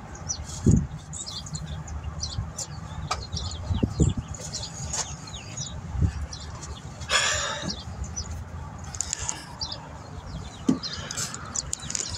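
Small birds chirping over and over, with a few dull knocks and a brief rustling scrape about seven seconds in.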